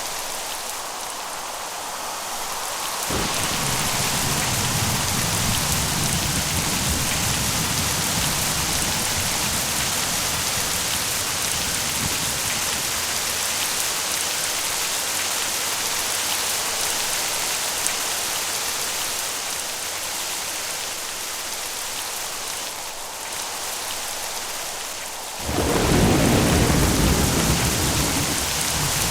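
Steady rain with rolling thunder: a low rumble builds about three seconds in and fades away over several seconds, then a sudden, louder peal of thunder breaks near the end.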